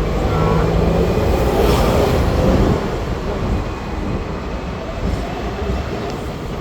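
Hong Kong double-decker electric tram running along its rails, a steady rumble that is a little louder for the first few seconds.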